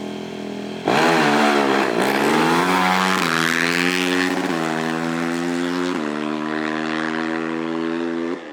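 Small vehicle engine idling, then launching at full throttle about a second in and accelerating hard, its pitch climbing and dropping back at each upshift through about four gears before it cuts off near the end.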